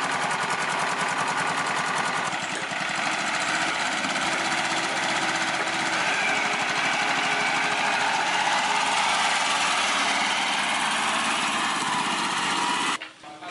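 A motor-driven machine running steadily with a fast, even pulsing, cutting off suddenly just before the end.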